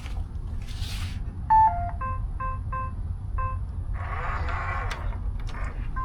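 Electronic keypad beeping as buttons are pressed: a two-note falling beep, then four short single beeps, followed about four seconds in by a second-long mechanical whirr.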